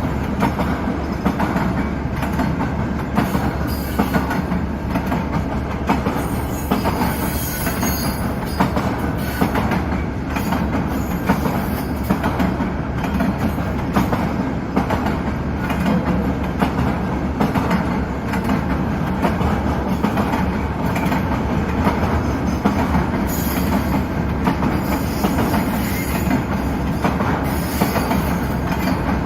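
CN mixed-freight train's cars rolling past, the wheels clicking steadily over rail joints. High-pitched wheel squeal comes in twice, briefly about a quarter of the way in and for longer near the end.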